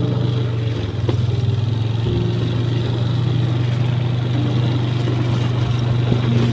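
Motorcycle engine running steadily while riding along a rough road, a constant low drone.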